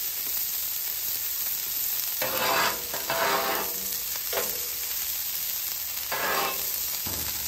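Ground beef patties and diced onions sizzling on a hot propane flat-top griddle, a steady frying hiss with a few louder surges about two, three and six seconds in.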